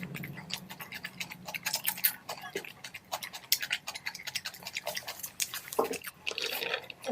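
Close-miked chewing and wet mouth sounds of someone eating rice and curry: irregular soft clicks and smacks.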